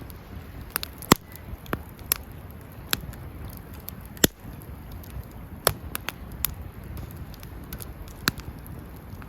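Wood campfire crackling: irregular sharp pops and snaps, the loudest a little over a second in and around four seconds in, over a low steady rush of burning.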